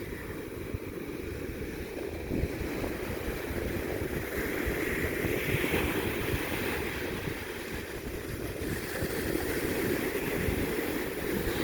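Steady wind and ocean surf noise, rumbling and swelling slowly in strength.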